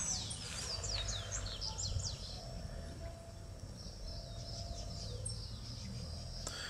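A small songbird singing a quick run of high, downward-sliding chirps that fades out about two seconds in, over a steady low background rumble.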